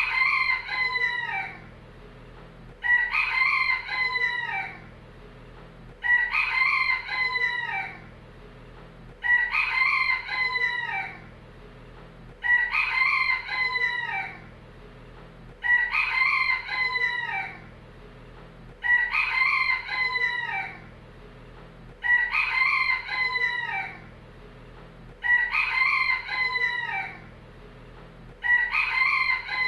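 A rooster crowing over and over, ten crows about three seconds apart, each about two seconds long and all alike, as in a looped recording.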